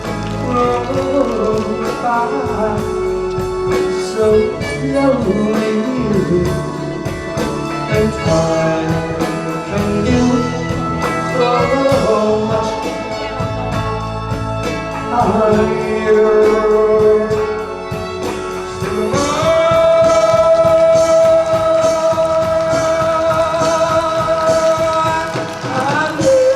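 A singer and a live band playing an oldies pop song, with a steady drum beat and guitar. Near the end the singer holds one long note.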